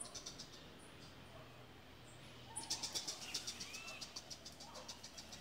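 Birds chirping in the trees: rapid trains of high chirps, about ten a second, near the start and again from about two and a half seconds in, with a few short arching calls.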